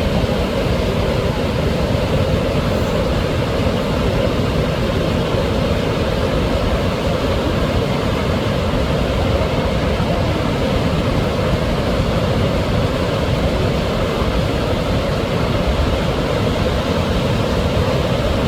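Wide, low waterfall, about 80 m across with a 3 m drop, pouring steadily: a loud, unbroken rush of falling water.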